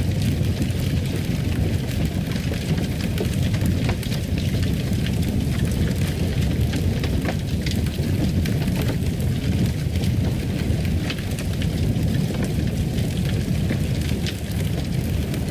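Fireplace fire burning with a steady low rumble and frequent sharp crackles and pops.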